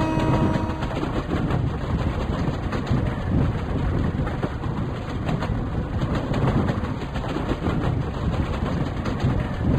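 A train horn ends about a second in, followed by the steady rumble of a train running.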